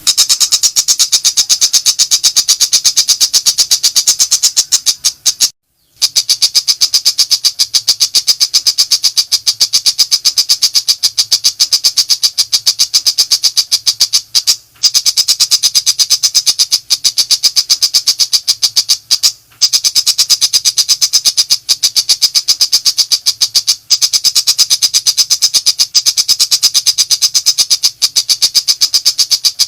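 Shrike singing in a rapid, unbroken run of sharp, high chattering notes, the fast 'nembak' delivery used as a training recording for songbirds, with a few brief pauses.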